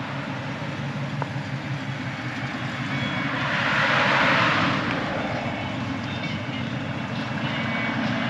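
Dodge Challenger driving past with its engine running, growing louder to a peak about four seconds in and then easing off.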